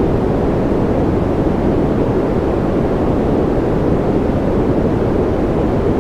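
Steady sleep noise track, sold as white noise: a constant, even rushing sound with its weight low and little bright hiss, unchanging throughout.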